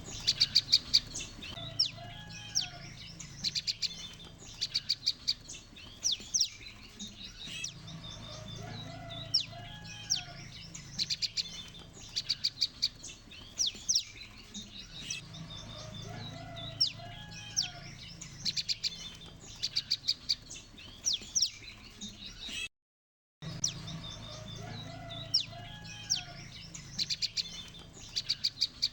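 A chorus of prenjak lumut (yellow-bellied prinias) calling together: rapid bursts of sharp, high, ticking notes every few seconds, with lower chirps between them and a steady low hum underneath. About three-quarters of the way through the sound cuts out for under a second.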